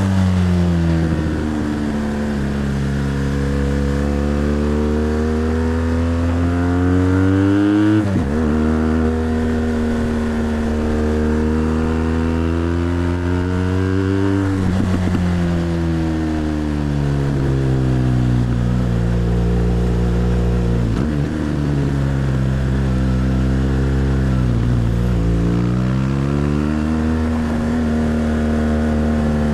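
BMW GS Adventure's boxer-twin engine heard from on the bike while riding: the engine note climbs and sags slowly as the throttle is opened and eased, with a few short breaks in the sound along the way.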